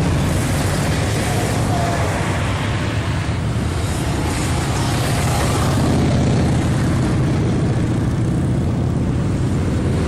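Motorcycle engines running together as a group of bikes rides, with a steady low rumble and a slight change in pitch about six seconds in.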